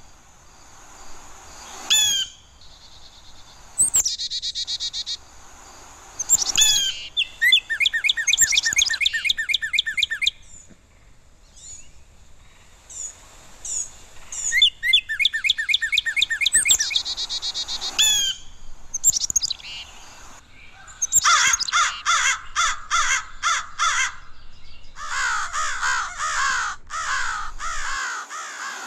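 Birds calling: loud clusters of rapid, repeated chirps and harsher calls, each burst lasting a few seconds, with short pauses between.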